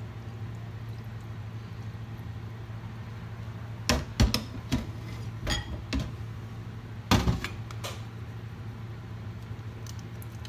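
Cookware clinking and knocking: a cluster of sharp clicks and knocks a little before the middle and two more about two-thirds through, over a steady low hum.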